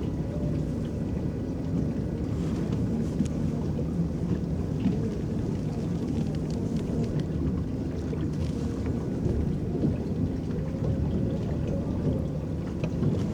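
Electric boat's paddles churning lake water: a steady low rumble of water against the boat, with a faint wavering motor hum and scattered small splashes.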